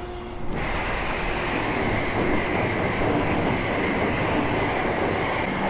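Self-serve car wash high-pressure rinse wand spraying water, starting about half a second in and running as a steady loud hiss.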